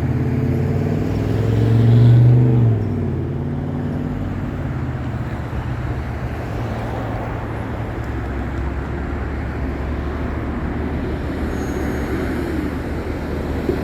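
Roadway traffic: a vehicle engine passes close by, loudest about two seconds in and fading quickly, then a steady rush of passing traffic.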